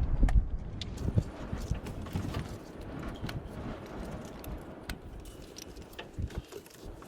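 Irregular light clicks, clinks and dull knocks of hand tools and engine parts being handled, the loudest thumps about a second in.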